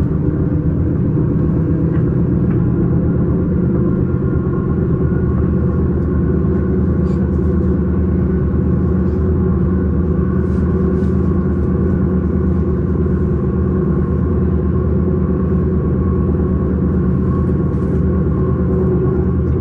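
Electric S-Bahn train running at steady speed: a loud, even rumble with a faint steady whine above it and a few light ticks.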